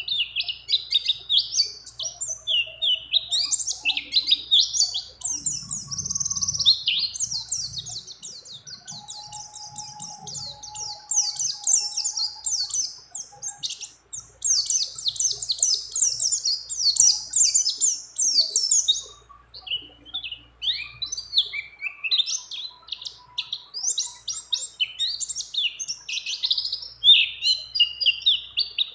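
White-eye (pleci) singing continuously, in long, fast runs of high chirps and rolling trills with short breaks. The song is filled out with phrases copied from other birds.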